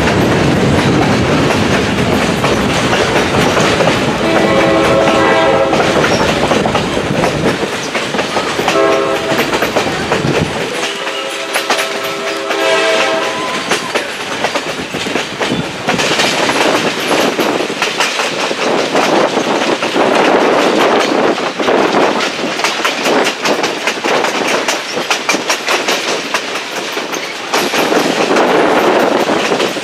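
Passenger coach rolling along the rails, wheels clacking steadily. The locomotive up ahead sounds three blasts: a long one about four seconds in, a short one about eight and a half seconds in, and another long one about twelve seconds in.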